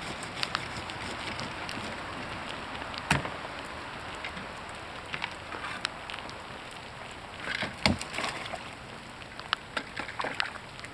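Steady hiss of heavy rain, broken by a few sharp woody knocks and snaps from the branches of a fallen tree being cleared. The knocks come about three seconds in and near eight seconds, where the loudest falls, with a few more near the end.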